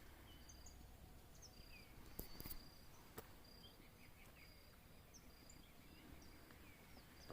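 Near silence, with faint small birds chirping and whistling in short repeated high notes, and a few soft clicks.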